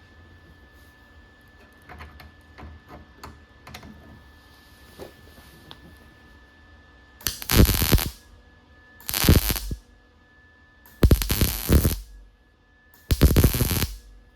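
Welder laying short beads, four crackling bursts of about a second each with pauses between, joining a reinforcing piece to thin sheet metal that burns through easily.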